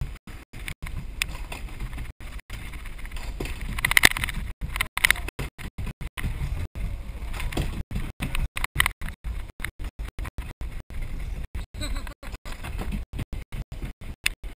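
Log flume boat ride heard from on board: a steady low rumble with water and wind noise, broken up by many short dropouts in the sound. Brief brighter sounds, likely riders' voices, come about four and five seconds in.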